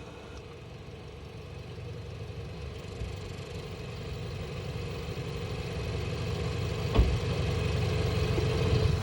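Volkswagen Jetta GLI engine idling steadily, growing gradually louder, with one sharp short knock about seven seconds in.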